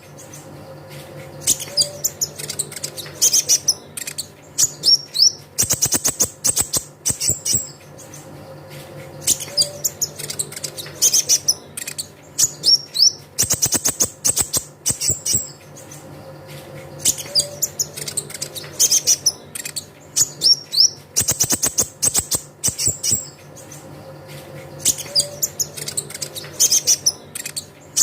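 Song of the sunbird known in Indonesia as the kolibri ninja (konin): rapid high twittering trills and sharp chirps, the same phrase repeating about every four seconds.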